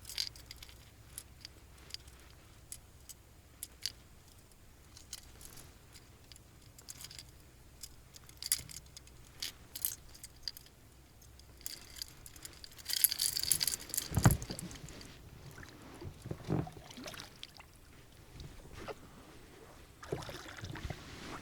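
Scattered small clicks and rattles of fishing tackle being handled in a boat, with a short hiss about 13 seconds in followed by a few dull knocks.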